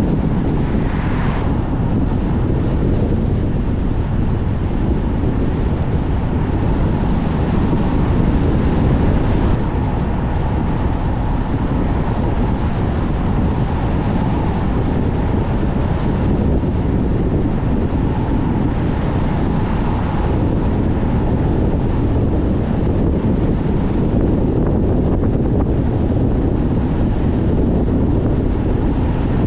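Strong wind buffeting the microphone, a dense, steady low rumble, over the road noise of a car driving.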